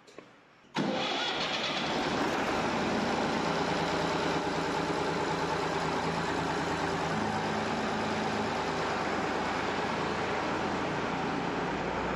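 A tractor engine bursts into life suddenly, about a second in, and then runs on steadily at a fast idle.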